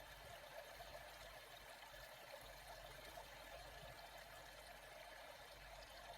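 Faint, steady sound of moving water, an even trickle and rush with no separate splashes.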